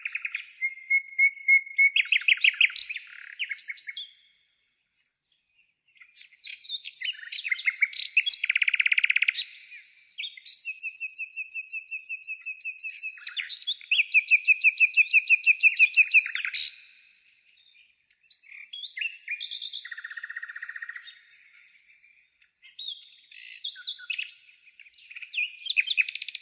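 Birds singing and chirping in high, repeated phrases with fast trills, broken by short pauses.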